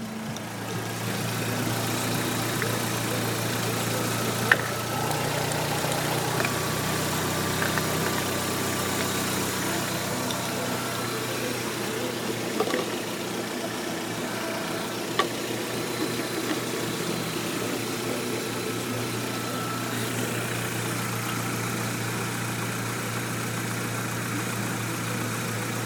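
Volvo V40's 1.8-litre B4184S four-cylinder petrol engine idling steadily. Two sharp clicks stand out, about four and fifteen seconds in.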